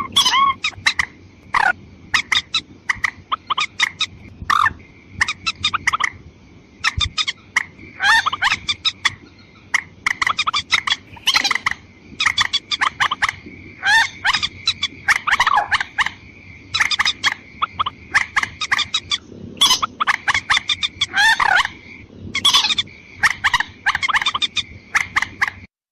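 Bird-lure recording of rail (mandar) calls, male and female: dense runs of rapid clucking, chattering calls with short pauses between bursts. A faint steady high tone sounds underneath.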